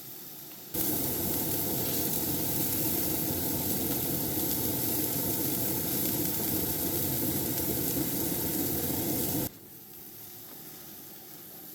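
Burger patties sizzling and frying in a hot, smoking pan. A louder stretch of sizzling starts suddenly about a second in and cuts off suddenly near the end, leaving quieter sizzling.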